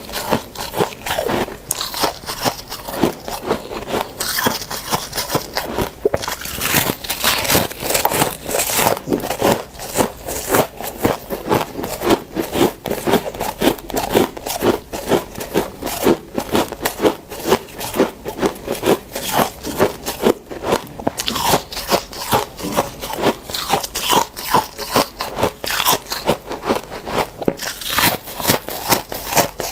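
Dry freezer frost being bitten and chewed close up: a steady run of crisp crunches, several a second.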